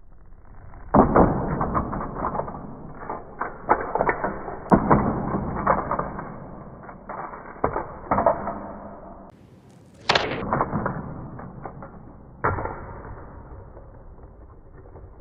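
Slowed-down, dull thumps and clatter of a toy monster truck hitting and bouncing: a heavy impact about a second in, more knocks around four to six seconds and around eight seconds, then fresh jolts near ten and twelve and a half seconds, each fading out.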